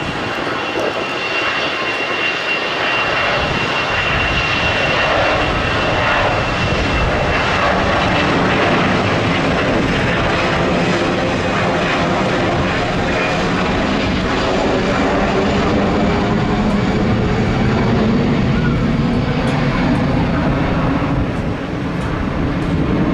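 Boeing 747's four turbofan engines running loud and steady as the jet passes. A thin high whine sits over the noise for the first several seconds and then fades.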